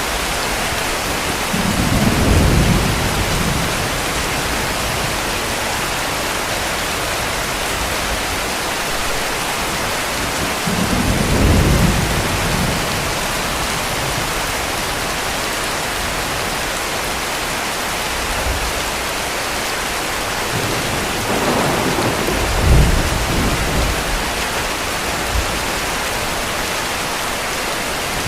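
Heavy rain falling steadily, with three low rumbles of distant thunder: one about two seconds in, one around eleven seconds, and a longer one from about twenty-one seconds with a sharper crack in the middle.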